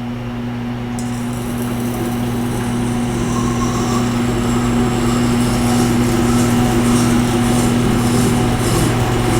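Tormek T-8 wet grinder running with a steady motor hum; from about a second in, a Leatherman blade scrapes along its freshly dressed grindstone. The grinding is faint, which the sharpener calls barely audible now that the stone has been dressed.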